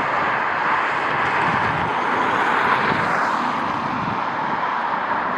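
Jet airliner engine noise, a steady rushing that swells slightly around the middle, with gusty wind buffeting the microphone underneath.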